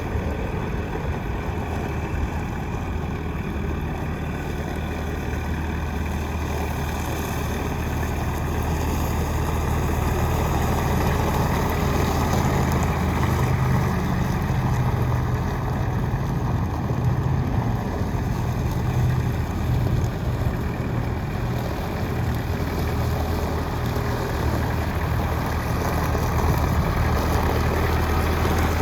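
Kubota M820 narrow loader tractor's diesel engine running steadily, its note getting a little louder about a third of the way in and holding there.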